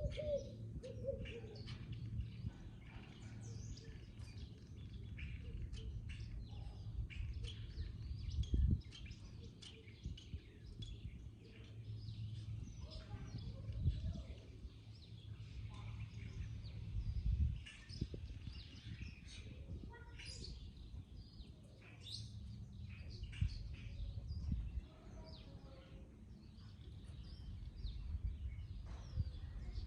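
Garden birds chirping and chattering, many short calls overlapping throughout, over a steady low rumble.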